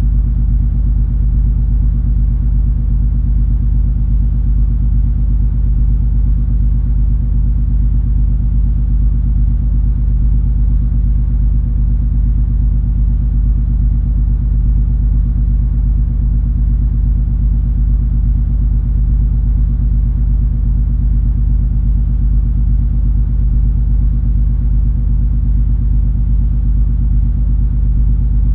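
Steady low rumble and hum of the MS Color Fantasy cruise ferry under way, its engines' drone heard on board. There is no change in level or pitch.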